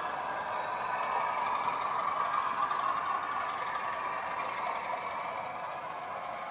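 Sound decoder of a 00 gauge BR Class 31 model locomotive (TTS sound chip) playing its diesel engine sound through a small onboard speaker: a steady running note, thin and without deep bass.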